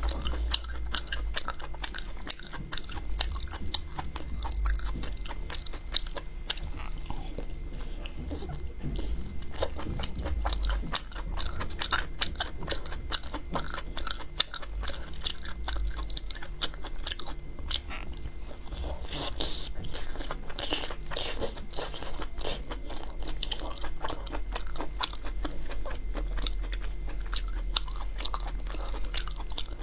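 Close-miked biting and chewing of fatty pork large intestine: dense, irregular small clicks and mouth noises of chewing, over a steady low hum.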